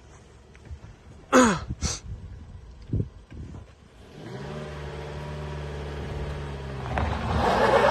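An off-road SUV's engine idles steadily from about halfway through, then revs up hard near the end with a loud rush of noise. Earlier come two short, sharp falling sounds about a second apart and a thump.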